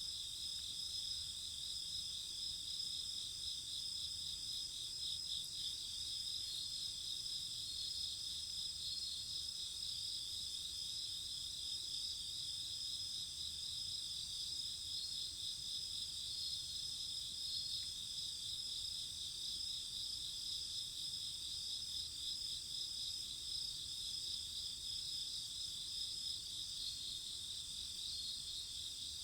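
A chorus of crickets chirping, several steady high-pitched trills pulsing rapidly and overlapping without a break.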